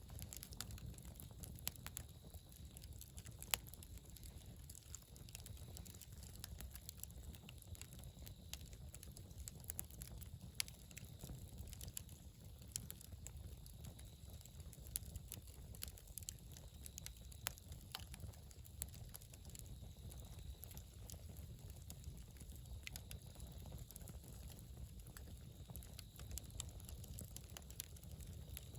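Wood campfire crackling, with irregular snaps and a few louder pops scattered through, over a steady low rumble.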